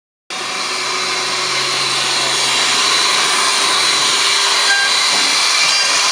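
High-speed spindle motor of an automatic horizontal hinge-drilling machine running: a steady hiss with a high whine that starts abruptly a moment in and swells slightly over the first couple of seconds.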